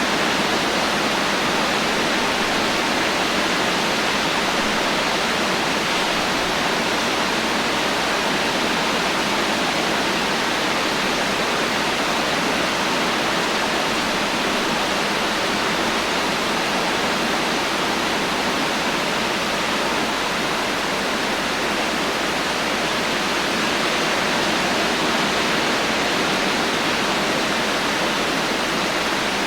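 Heavy rain falling steadily as a dense, even hiss, with no thunder and no separate drops standing out.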